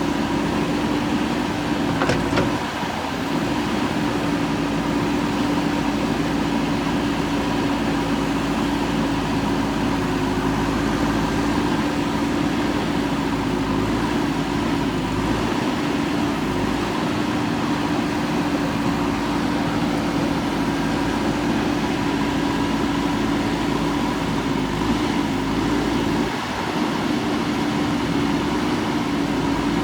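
JCB 3DX backhoe loader's diesel engine running steadily, with a steady drone that dips briefly twice.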